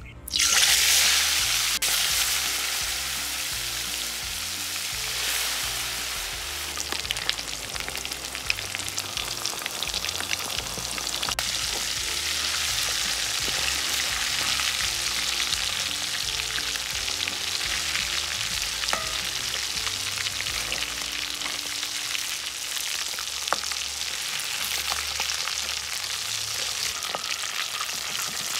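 Chicken pieces deep-frying in coconut oil in an aluminium wok: a loud sizzle that starts suddenly about half a second in, then settles into a steady bubbling crackle with occasional sharp pops. A spatula turns the pieces now and then.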